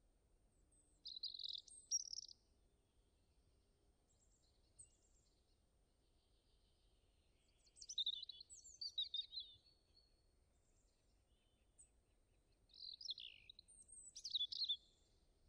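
Birds chirping in three short bouts of high, quick twittering calls, separated by quiet stretches of faint background noise.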